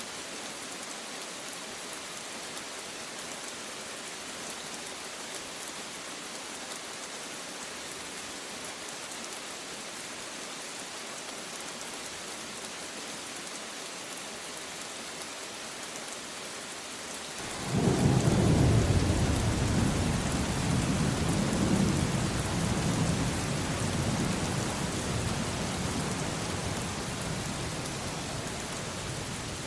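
Steady rain falling, then about halfway through a sudden loud rumble of thunder that slowly dies away over several seconds while the rain keeps on.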